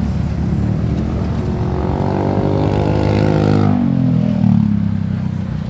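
Steady road rumble while a motor vehicle passes close by. Its engine note builds from about a second and a half in, then drops in pitch as it goes past around the four-second mark.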